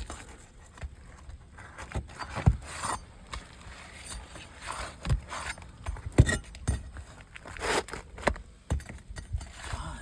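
Steel flat bar working a roofing nail out from under an asphalt shingle: irregular metal clicks and knocks mixed with short scrapes.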